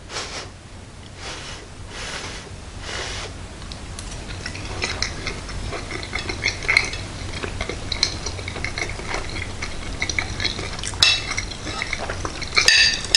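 A few short breaths blown on a piping-hot forkful of meatloaf, then close-up chewing: a steady run of small wet clicks and crackles from the mouth.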